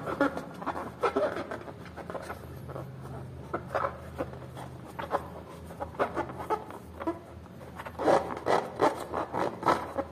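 Hands squeezing and rubbing a slime-filled rubber balloon: irregular rubbery squeaks and squishes under the fingers, coming thick and fast near the end.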